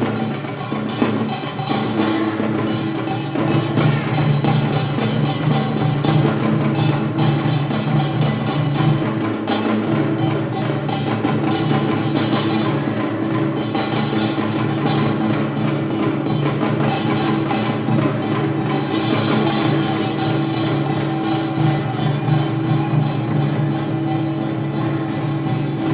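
Korean traditional percussion ensemble (janggu hourglass drum, kkwaenggwari small gong, buk barrel drum, jing gong) playing a dense, fast rhythm over steady held tones.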